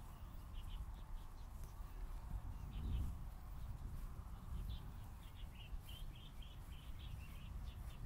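Birds chirping outdoors: short, quick calls repeated in bursts, thickest in the second half, over a steady low rumble.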